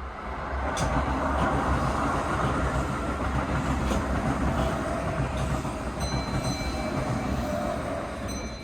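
Keihan 3000-series train's air brakes hissing during a brake test on the stopped train: a steady hiss that swells about a second in and eases near the end, with faint high steady tones joining in the last couple of seconds.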